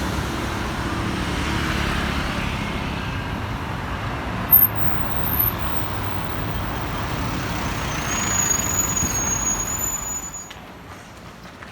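City street traffic: road vehicles passing in a steady rush of engine and tyre noise, with a short sharp high squeal about four and a half seconds in and a thin high-pitched squeal lasting about two seconds near the end. The traffic noise then eases off.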